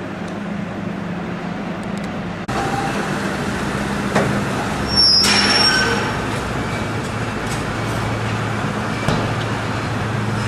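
Ford F-450 V10 tow truck's engine running as it drives, with a few sharp knocks and a louder stretch of hiss with a thin squeal about five seconds in.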